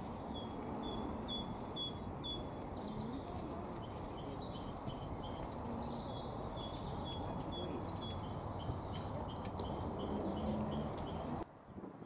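Small songbirds singing, with short high chirps and whistled notes repeated over and over, above a steady low outdoor background noise. The sound drops away suddenly near the end.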